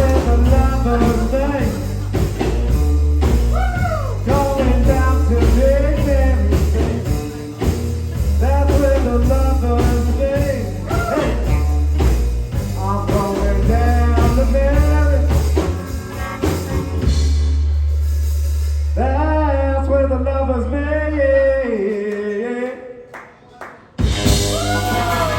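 Live blues-rock trio of electric bass, electric guitar and drum kit playing with a singer. About two-thirds of the way through, the drums stop and a long bass note is held under the vocal line. Near the end the sound nearly cuts out for about a second, then the band comes back in.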